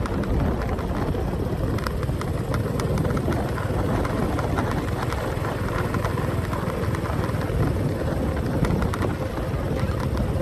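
Motorcycle engine running at a steady riding speed, with steady road noise and no change in pace.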